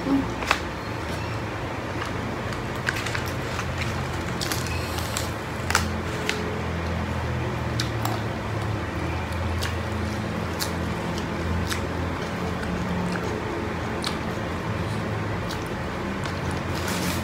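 Chewing and mouth sounds of people eating rice, fish and raw vegetables with their hands, with scattered sharp clicks.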